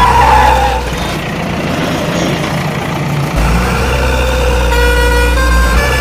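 Cartoon soundtrack: a truck engine sound effect over a looping background music track. The music's bass drops out for about two seconds in the middle and then comes back.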